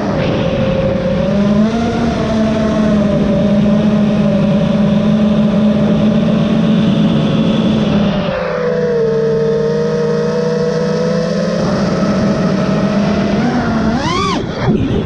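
FPV quadcopter's brushless motors and propellers whining, heard from on board the quad, holding a steady pitch with a shift to a different pitch for a few seconds in the middle. Near the end there are quick rising and falling sweeps as the throttle is punched and cut.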